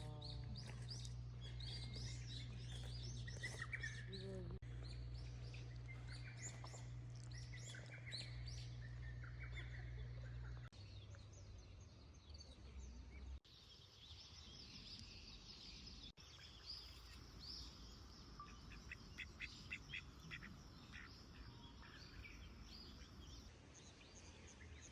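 Small birds chirping and calling, many short high notes with a quick rapid trill near the end, over a faint steady low hum; the background changes abruptly a few times.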